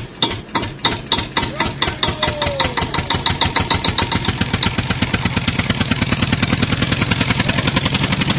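Tractor engine puttering, its beats slow at first and quickening steadily over several seconds as it picks up speed.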